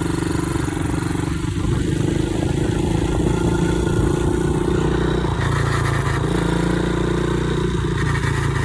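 Pit bike's small single-cylinder engine running while being ridden, at fairly steady revs, with a change in engine note about five and a half seconds in and again near the end.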